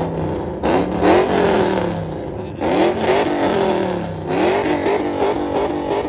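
Vehicle engine being revved several times, each rev climbing in pitch and falling back, with a smaller run of quick revs near the end.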